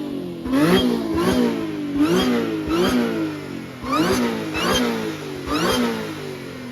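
Car engine revved in about eight quick blips, each rising sharply in pitch and then falling back. A whine climbs and drops with each rev, the sound of a supercharger.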